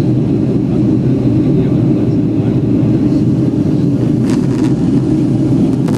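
Steady low drone inside a Boeing 757's cabin during the climb after takeoff: engine and airflow noise. A few faint clicks come about four seconds in.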